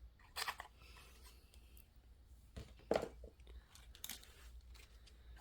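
Decoupage paper being sanded off the edge of a pallet-wood sign: a few short scraping strokes, about half a second in, near three seconds (the loudest) and about four seconds in.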